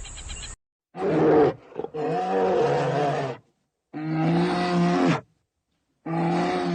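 A large animal roaring: four long, low-pitched roars with short silent gaps between them. A brief, quieter sound comes first.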